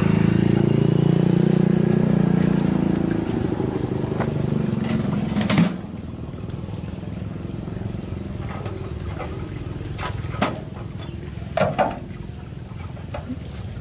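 Tractor engine running steadily, then dropping away after a sharp clunk about halfway through. A few faint knocks follow.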